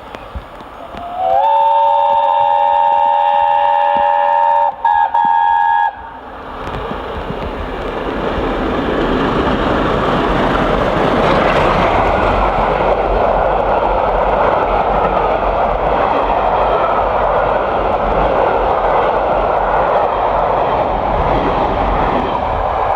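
Steam locomotive 60163 Tornado, a Peppercorn A1 Pacific, sounding its chime whistle in one long blast of about five seconds that breaks briefly twice near its end. The train then runs past at speed, its noise building over a few seconds and staying loud.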